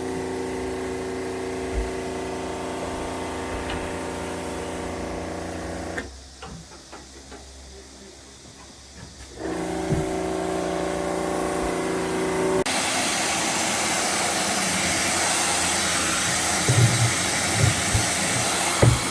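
A motor-driven machine runs with a steady hum, cuts out for about three seconds, then starts again. From about two-thirds of the way in it gives way to a louder steady rushing hiss, like air or spray blowing.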